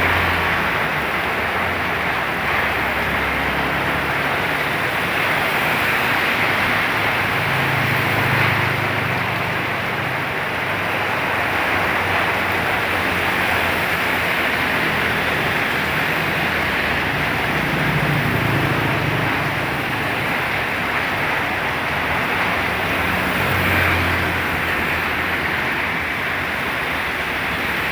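Heavy rain pouring steadily in strong wind, with low rumbles swelling and fading a few times.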